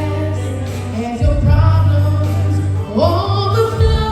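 A gospel song: sung vocals over a musical accompaniment with held bass notes that change twice.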